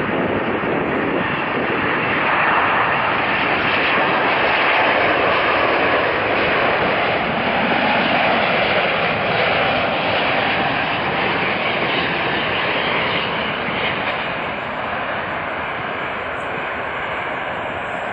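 Boeing 777-200ER's Rolls-Royce Trent turbofans on a landing approach, a loud jet rush that swells over the first few seconds, holds through the middle, and fades near the end as the airliner passes.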